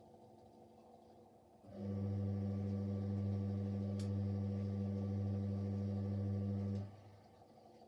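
Siemens Siwamat Plus 574 washing machine humming steadily for about five seconds during its anti-crease stage after the final spin, starting about two seconds in and cutting off sharply.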